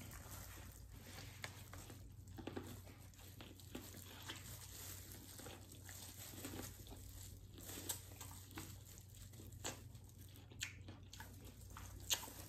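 Faint eating sounds: biting into and chewing corn on the cob, with scattered small clicks and crackles and the crinkle of a plastic glove.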